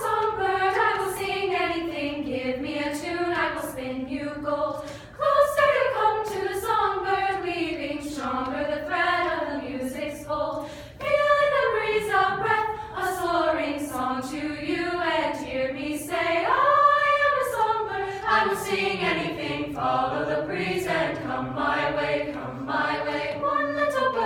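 A cappella choir singing a flowing, gliding melody in several voices, with new phrases entering about 5 and 11 seconds in.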